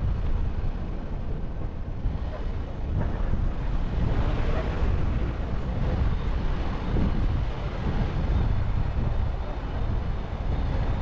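Wind buffeting the microphone outdoors: a steady, uneven rumble with no clear tones or sharp sounds.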